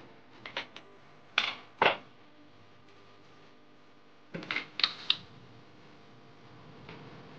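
Handling noise: a few sharp clicks and short scrapes, two about one and a half seconds in and a quick cluster of four or five between about four and five seconds in.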